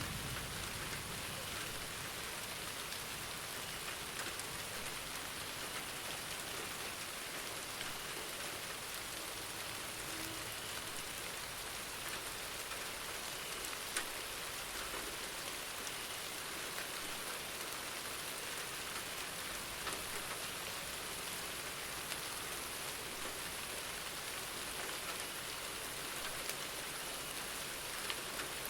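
Steady rain falling: an even hiss with occasional single drops ticking out of it, the sharpest about halfway through.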